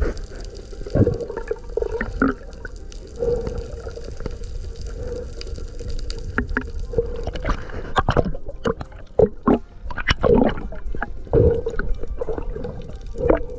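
Water gurgling and bubbling around the microphone, with many short irregular pops over a steady hum, as heard in an underwater recording.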